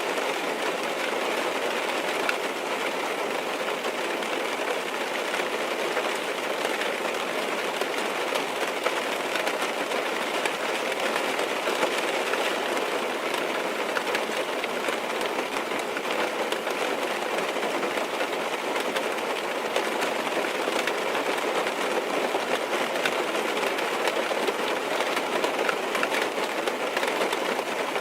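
Steady rain falling on a car's roof and windows, heard from inside the car as an even hiss with faint scattered ticks.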